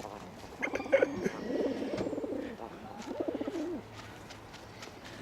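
Birds cooing in two low, pulsing bouts, with a few sharp clicks about a second in.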